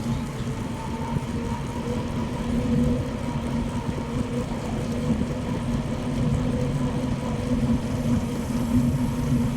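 Bicycle rolling along a paved road: a steady tyre hum with a low rumble underneath.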